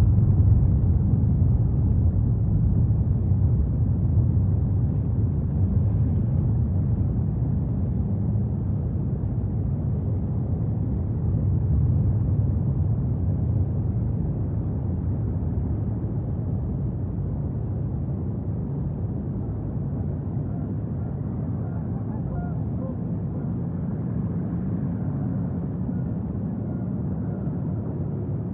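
Wind buffeting the outdoor nest camera's microphone: a steady low rumble that eases slightly over time.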